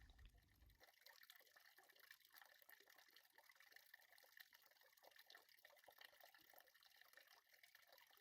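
Near silence, with a faint trickling of liquid and small irregular ticks.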